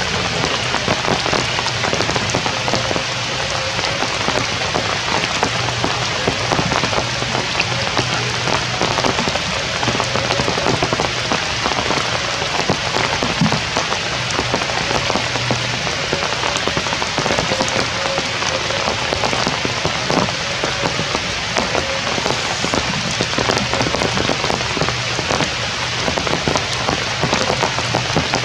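Heavy rain falling and pattering on surfaces in a steady downpour.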